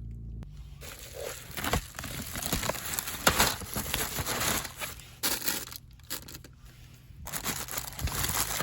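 Crinkling and rustling of something like plastic packaging or a bag being handled, in irregular bursts with scattered sharp clicks.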